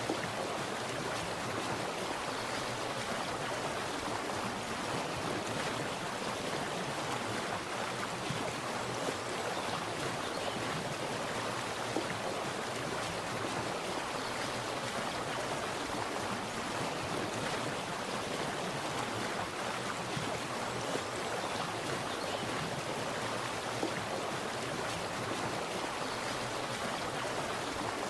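Splashing water running steadily, an even rushing sound with a few slightly louder splashes.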